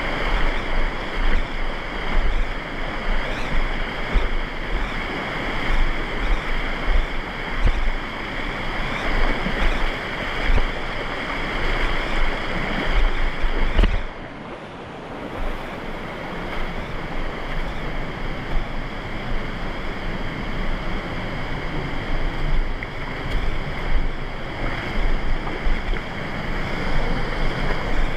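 Steady rush of fast-flowing river water, with wind buffeting the microphone in low thumps; the sound drops briefly and loses its treble about halfway through.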